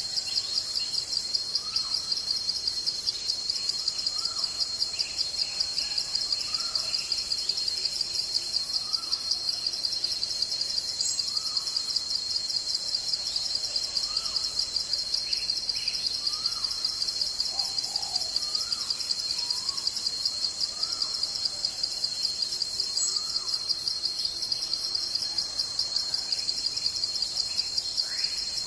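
A dense insect trill, a fast, even pulsing held at one high pitch throughout. Under it a bird repeats short rising-and-falling call notes every second or two.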